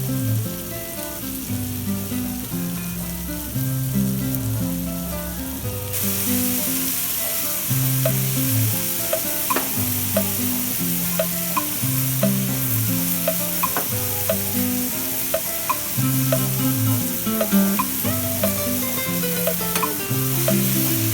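Food sizzling as it fries in a pan, with the hiss getting much louder about six seconds in, and a spatula clicking against the pan as it is stirred. Background music with a repeating low melody plays throughout.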